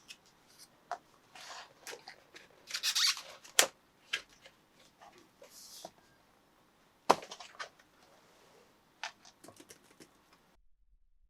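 Packaging being handled during an unboxing: short rustles and crinkles with scattered clicks and two sharper knocks. The sound cuts off suddenly about a second before the end.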